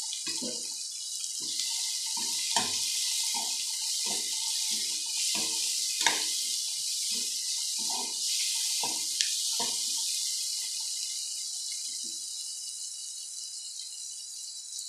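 Onion-tomato masala with chilli powder sizzling in oil in a non-stick kadai, while a steel ladle stirs it in quick scraping strokes, about one to two a second, for the first ten seconds, with a few sharper clinks of the ladle on the pan. The sizzle runs on steadily after the stirring stops.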